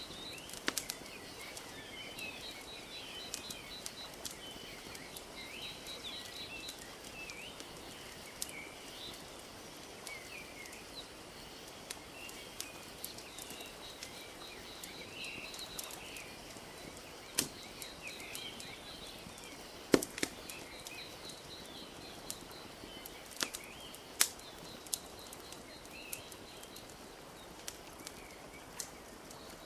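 Ambience of birds chirping and a crackling wood fire. Sharp pops from the fire stand out, the loudest about twenty seconds in, over a soft steady wash and a rapid high pulsing trill.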